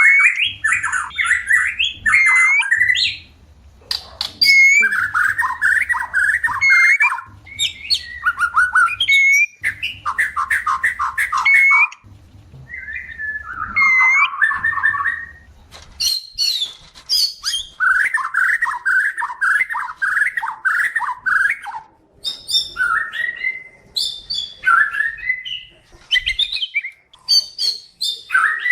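White-rumped shama calling in bursts of fast repeated notes a few seconds long with short pauses between, turning to shorter separate calls near the end. These are the calls of shamas in breeding condition asking to mate, used as a lure recording.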